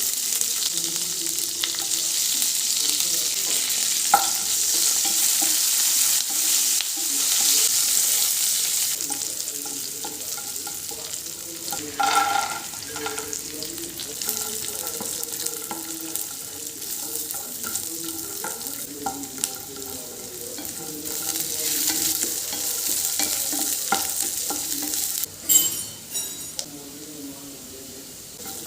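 Food sizzling as it fries in a pan, with a utensil stirring it now and then. The sizzle is loudest in the first third and then settles, and a short clatter comes near the end.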